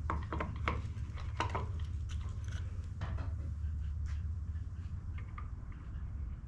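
Light clicks and clinks of blower parts and tools being handled while the backpack blower is reassembled, over a steady low hum.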